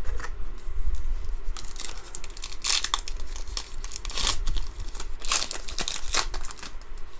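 A trading-card pack wrapper being torn open and crinkled by hand, in several short rips and crackles.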